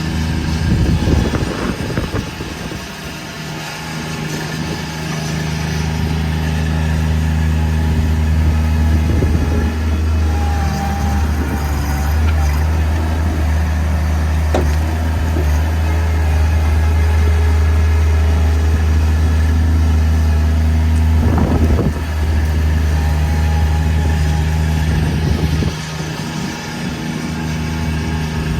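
Bobcat MT100 mini track loader's engine running steadily under load, with a few brief knocks and clatters from the backhoe attachment working.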